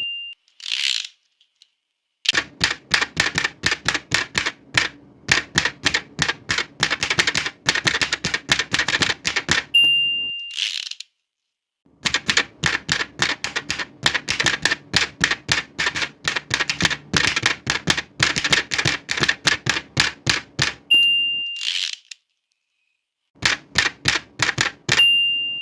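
Very old manual typewriter being typed on in fast runs of keystrokes. Each line ends with the margin bell's ding and the swish of the carriage return, near the start, about 10 seconds in and about 21 seconds in, and another ding sounds right at the end.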